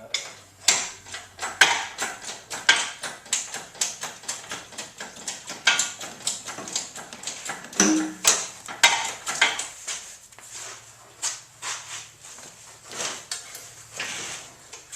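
Irregular clatter of sharp knocks and clicks, several a second, as metal parts are handled and knocked about.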